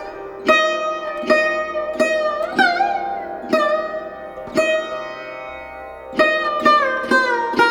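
Background music: a plucked string instrument playing about ten slow single notes, several bending up or down in pitch after the pluck, over a steady drone.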